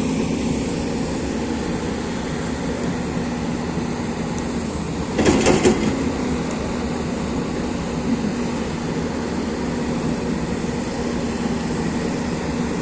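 Excavator's diesel engine running steadily, with a brief burst of clanks about five seconds in.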